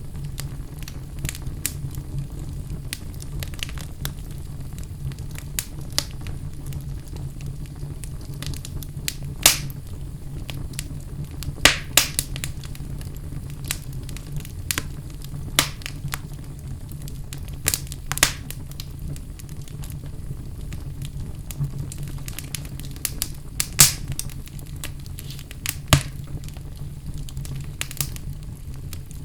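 Wood fire burning in a fireplace, crackling with irregular sharp pops over a low, steady rumble of the flames; the biggest pops come at about ten seconds, twelve seconds and twenty-four seconds.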